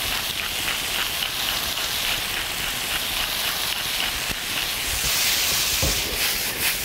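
Chicken pieces and onions sizzling as they are stir-fried in a pan, a steady hiss with light scrapes and clicks of the spatula.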